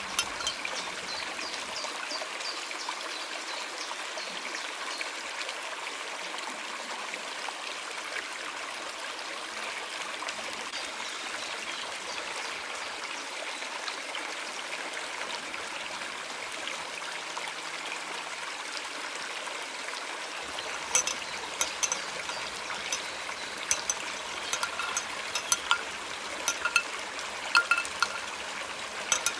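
Running water with a steady rush, like a small forest stream. About two-thirds of the way through, scattered short sharp clicks and taps start over it.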